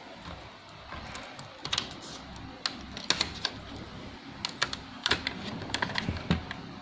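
Irregular small clicks and taps of hands and tools working on a laptop's opened plastic case and internal parts, about a dozen sharp ticks scattered through, busiest in the second half.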